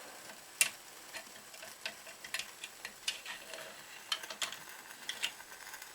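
Light, irregular metallic clicks and taps as the solid-fuel burner tray is slid into the chassis of a small live-steam garden railway locomotive. The sharpest click comes about half a second in.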